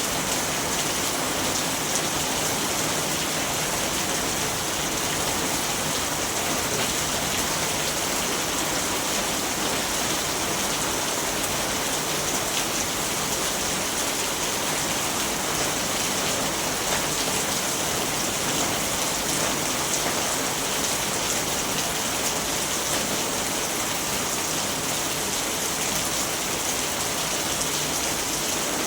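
Steady rain falling: an even, unbroken hiss that stays the same throughout.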